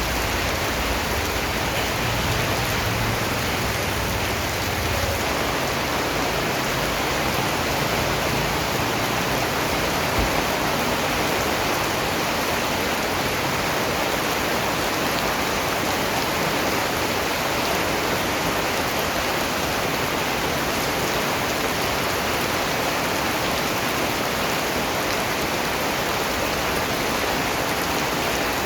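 Steady rain falling in an even hiss.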